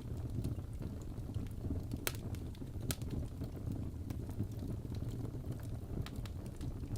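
Wood fire burning in a fireplace: a steady low rumble of flames with scattered sharp crackles, and two louder pops about two and three seconds in.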